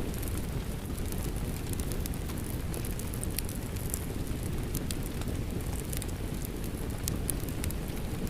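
Steady rain mixed with a crackling wood fire: a dense low rumble under frequent sharp, irregular crackles and pops.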